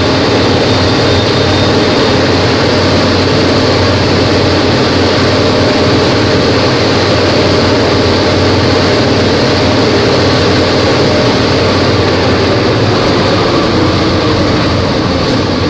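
Volvo B270F Euro 3 bus engine running loudly at a steady speed, its pitch holding level, easing off slightly near the end.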